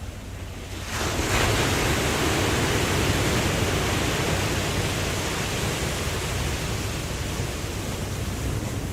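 Ocean wave breaking about a second in, then washing and slowly fading over a steady low rumble of surf.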